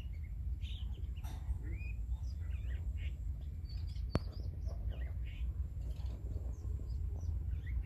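Small birds chirping: short, scattered chirps and curling calls over a steady low rumble, with one sharp click about four seconds in.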